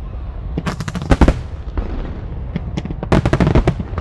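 Fireworks shells bursting in two quick volleys of sharp, crackling bangs, about a second in and again past three seconds, over a steady low rumble.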